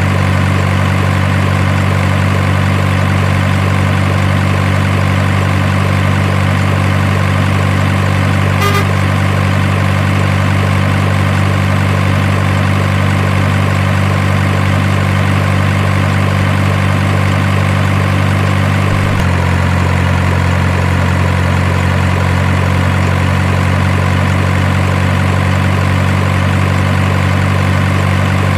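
Steady, low truck-engine idle sound of an RC dump truck, unchanging in level; its tone shifts slightly about two-thirds of the way through, and a single short click comes about a third in.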